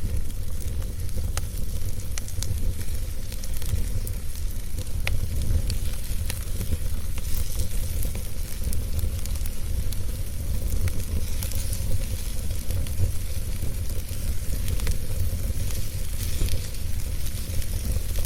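Wood fire burning in a fireplace: a steady low rumble of flames with a hiss and irregular sharp crackles and pops from the burning logs.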